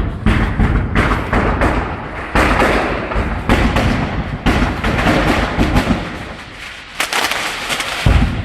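Repeated loud bangs and thuds over a continuous rushing noise: the sharpest strikes come at the start, about a second in, then every second or so, and twice more near the end.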